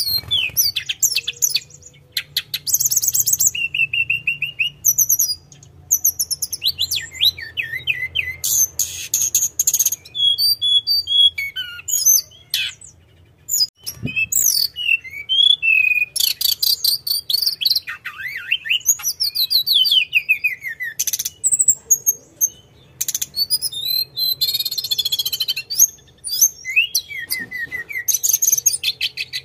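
Tledekan gunung, a flycatcher, singing continuously in full voice: quick run-on phrases of rapid rolling trills, chirps and sweeping whistles, with brief pauses between bursts. A faint low hum runs underneath.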